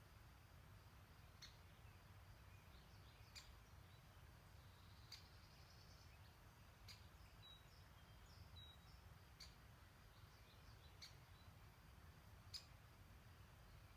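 Faint streamside ambience: a sharp, high tick repeats about every two seconds, and a few faint short bird chirps come near the middle, over a steady low rumble.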